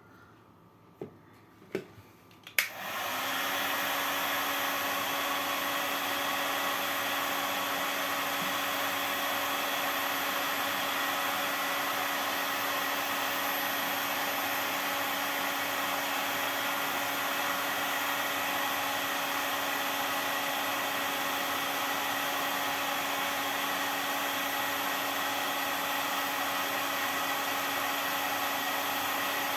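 Heat gun switched on with a click about two and a half seconds in, then blowing steadily with a constant motor hum as it heats plastic bottle caps to melt them. A few light knocks come before it starts.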